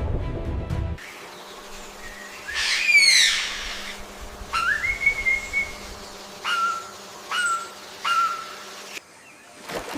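A series of clear whistled animal calls: first a loud whistle that falls in pitch, then one that rises and holds, then three short, lower whistles about a second apart. The tail of background music cuts off about a second in.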